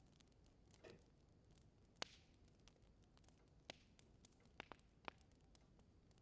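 Wood burning in a fireplace, crackling faintly with scattered small pops and ticks. A brief soft hiss comes just before one second in, and one louder pop about two seconds in.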